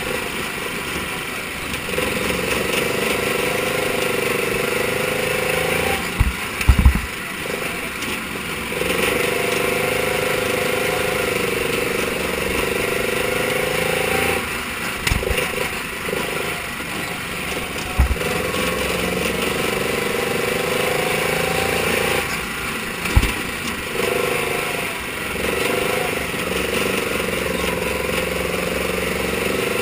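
Mini sprint car engine running hard around a short dirt oval. The throttle lifts and the pitch drops about every eight seconds, then the engine pulls back up, with a few short thumps around those lifts.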